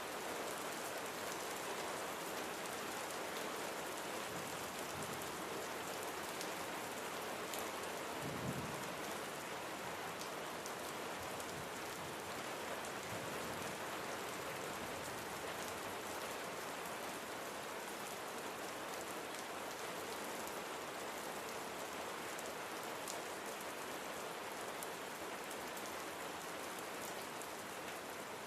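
Steady rain falling: a continuous even hiss with fine drops ticking through it. There is one brief low thump about eight seconds in.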